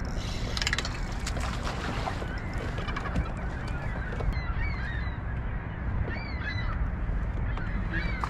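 Birds calling over and over in short arched calls, over a steady low rumble. A few clicks come in the first couple of seconds.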